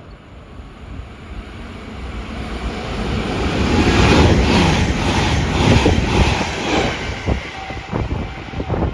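A train passing at speed, its noise building steadily to a peak about four to six seconds in, with a run of rhythmic clacks of wheels over the rail joints, then easing off as it goes by, with wind on the microphone.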